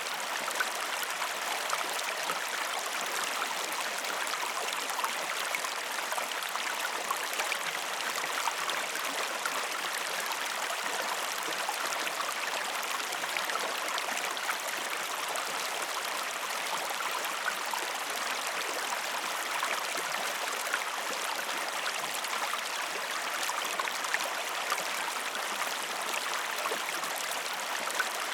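Steady rush of a flowing river, an even water noise with faint scattered ticks.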